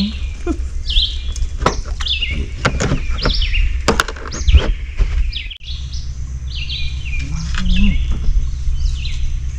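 Songbirds chirping over and over, short high notes that fall in pitch, over a steady low rumble, with a few sharp clicks.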